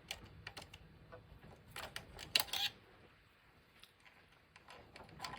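Faint scattered clicks and small scrapes of an electrical wire and its crimp terminal being worked onto a terminal, with a short cluster of sharper clicks about two seconds in.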